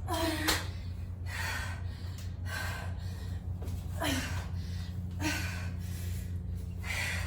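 A woman breathing hard while exercising, with about six loud gasping breaths a little over a second apart, over a steady low hum.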